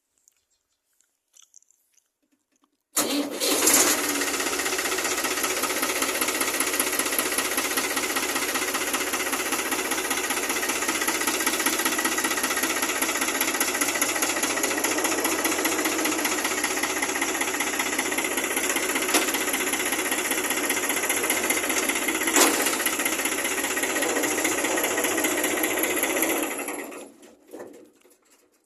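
Tractor's diesel engine starting suddenly about three seconds in and running steadily at a loud, even level, then shutting off and dying away near the end.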